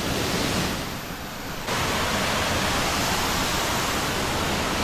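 A rain-swollen waterfall rushing: a steady, dense noise of heavily falling water, which gets abruptly louder a little under two seconds in.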